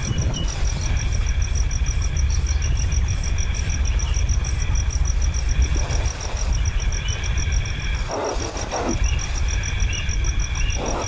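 Outdoor ambience: an insect's continuous high trill pulsing at about eight beats a second, over a steady low rumble.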